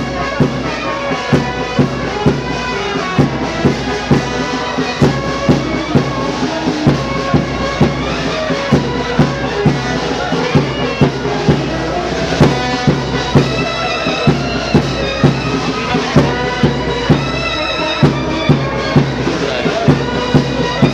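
Band music: wind instruments playing a tune over a steady drum beat of about two strokes a second.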